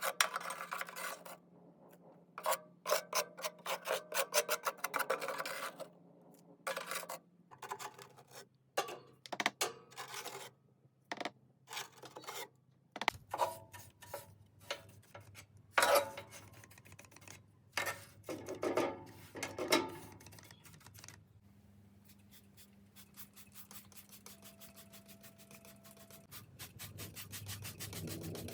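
Scraping, brushing and rubbing in short bursts, from cleaning out a fireplace: a putty knife and brush clearing the ash, and wiping. A fast run of short strokes comes near the end.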